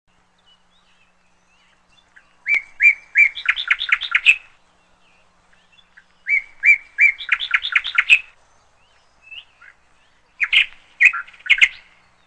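A small songbird singing three repeated phrases. Each phrase opens with a few separate chirps and runs into a quicker string of notes.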